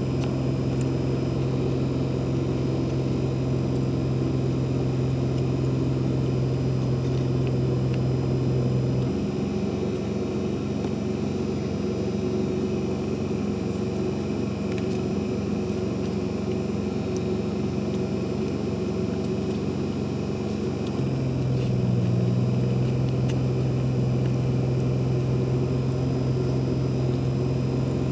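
A steady low engine hum, its pitch changing about nine seconds in and changing back about twelve seconds later.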